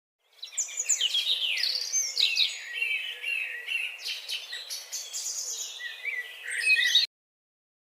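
Several birds chirping and singing together, a busy mix of short whistled notes, chirps and quick trills, cutting off suddenly about seven seconds in.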